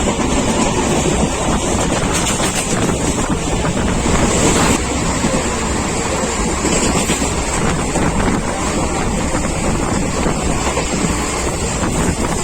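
Steady rush of wind on the microphone over the running noise of an express passenger train moving at speed.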